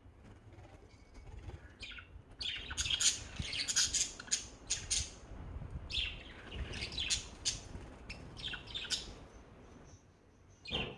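Pet lovebirds in an aviary chirping in dense, overlapping bursts, starting about two seconds in and dying down near the end.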